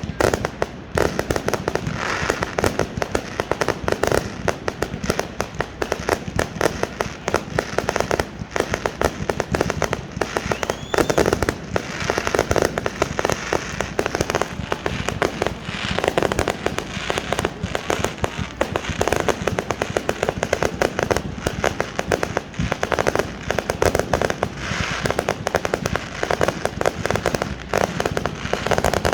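Fireworks display going off continuously: a dense run of bangs, pops and crackling bursts with no pause.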